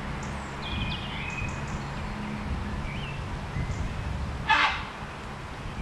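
Small woodland birds chirping at dusk, with one louder, harsher bird call about four and a half seconds in, over a steady low hum.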